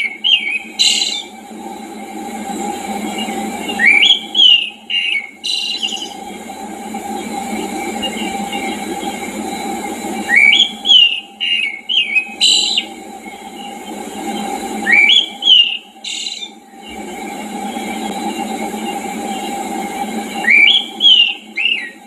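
A songbird singing a short phrase of rising and falling whistles that ends in a higher note, repeated four times about every five seconds, over a steady background hiss and hum.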